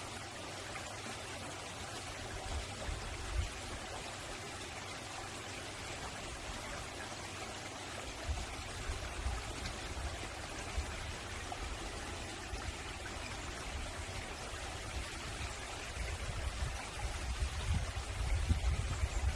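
Mountain valley stream flowing steadily over rocks, a continuous rush of water. Irregular low rumbles come and go beneath it and grow stronger near the end.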